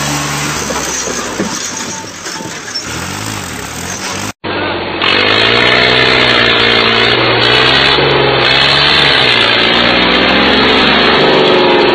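Engine running steadily. After a sudden cut about four seconds in, an engine runs loud with its pitch wavering up and down, as under changing load.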